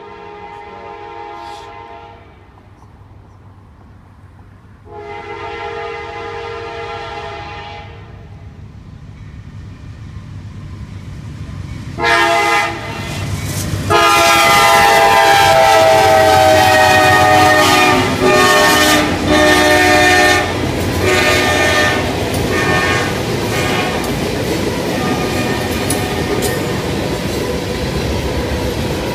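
CSX freight locomotive's air horn sounding the grade-crossing signal, long, long, short, long, each blast louder as it approaches, the last one dropping slightly in pitch as it passes. The horn gives way to the rumble and clickety-clack of tank car wheels rolling over the rail joints.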